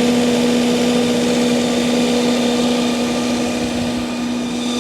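Multiquip Whisperwatt DCA-70 diesel generator, driven by an Isuzu 4JJ1X turbo-diesel, running steadily: an even engine drone with a clear, constant hum.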